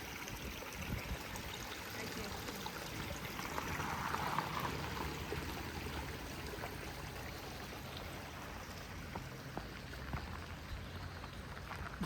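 Creek water flowing, a steady rushing that swells slightly about four seconds in.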